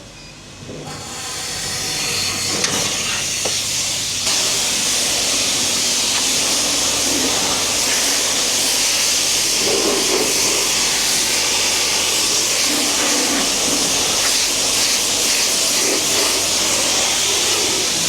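Steady hiss of water spraying onto a car's paint, starting about a second in and building up over the next few seconds.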